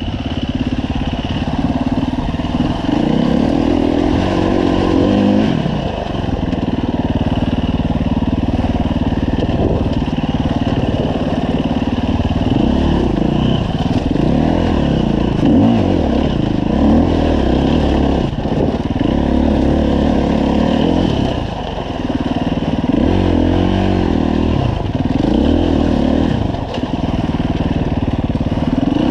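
2015 Husqvarna FE 350 dirt bike's single-cylinder four-stroke engine under way, the revs rising and falling again and again as the throttle is opened and closed.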